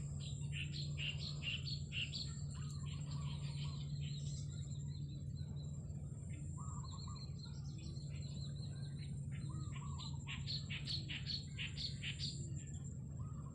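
Small birds chirping in quick runs of short high notes, busiest near the start and again toward the end, over a steady low hum and a thin, steady high-pitched whine.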